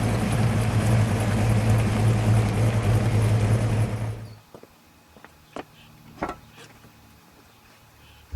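1970 Dodge Charger R/T's 440 cubic-inch V8 idling steadily with a deep rumble, then stopping abruptly about four seconds in, followed by a few faint clicks.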